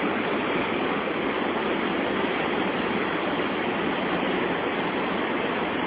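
Waterfall rushing steadily, a continuous roar of falling water with no break.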